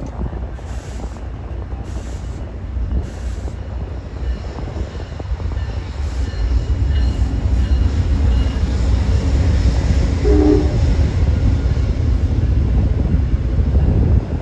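Amtrak passenger train rolling past at close range: a heavy rail rumble that builds from about four seconds in and stays loud, with a faint wheel squeal.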